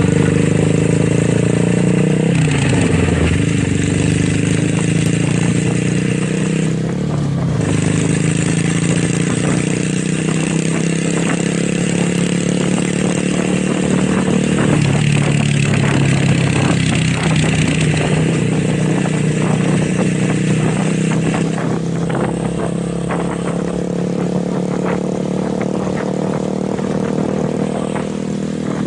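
Motorcycle engine and exhaust running steadily under way, its pitch dropping and then climbing again a few times.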